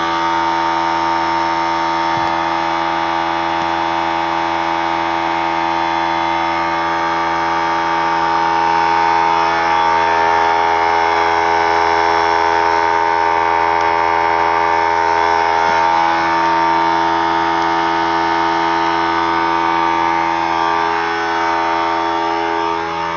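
Oilless 3-gallon pancake air compressor running steadily, a loud, even motor-and-pump drone.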